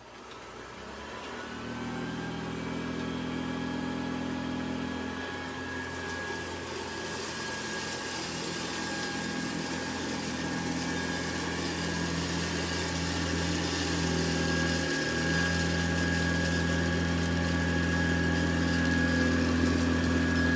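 Hoover Model 70 vacuum cleaner switched on, its motor spinning up over the first two seconds and then running steadily with a high whine. It grows slowly louder, with a brief dip about fifteen seconds in.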